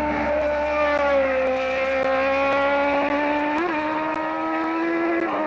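Rally car engine held at high revs through a timed stage, its pitch sagging slightly and then holding steady. There is a brief blip about three and a half seconds in and a drop in pitch near the end, like a gear change.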